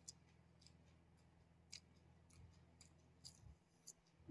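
Near silence: a low steady hum with about six faint, sharp, scattered clicks, the chewing and mouth sounds of someone eating pani puri.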